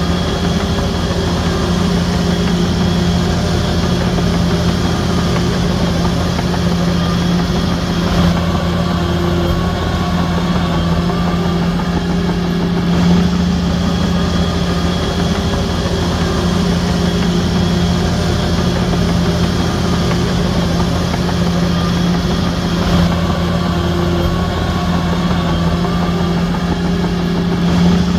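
Heavy diesel engine of earthmoving machinery running steadily at an even speed, with a strong low hum that holds one pitch.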